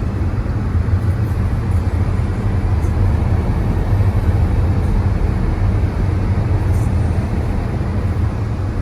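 Steady low rumble of a car being driven, with road and engine noise.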